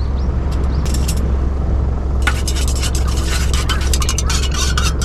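Steady low hum of portable generators running close by on both sides. From about two seconds in, a quick run of clicks and scraping handling noises sits over the hum.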